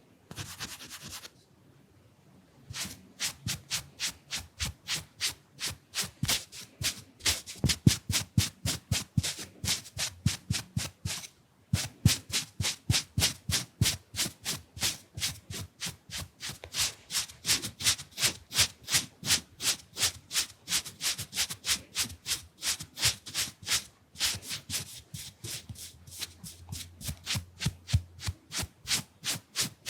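Fan brush swept quickly back and forth across the microphone, a fast rhythm of rubbing strokes at about three to four a second. A short soft rush comes just before the strokes begin.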